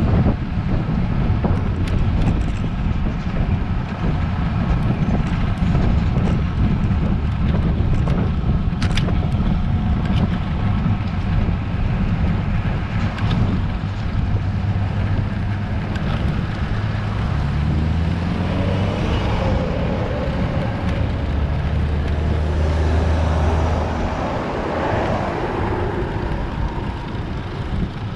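Wind rumbling on an action camera's microphone with road noise from a road bike climbing. A motor vehicle passes about two-thirds of the way through, its engine note rising and then falling away.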